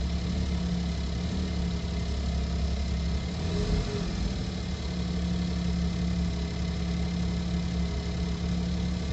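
2010 smart fortwo's 1.0-litre three-cylinder petrol engine idling a little above 1000 rpm while still cold, heard from inside the cabin. About three to four seconds in it rises briefly toward 2000 rpm, then settles back to idle.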